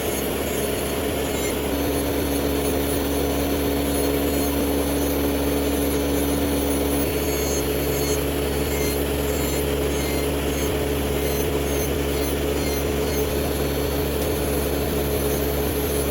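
A small electric motor running steadily, giving a constant hum with a low rumble and a couple of steady tones. One of the tones drops out about seven seconds in.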